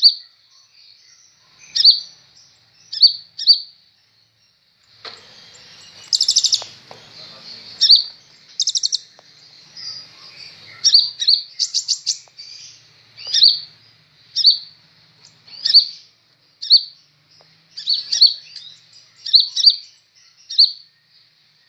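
Sunbird (the 'kolibri ninja' of Indonesian bird-keepers) calling with short, sharp, high chirps, singly and in quick doubles and triples, about one a second. Three fast rattling trills come in, about six, nine and twelve seconds in.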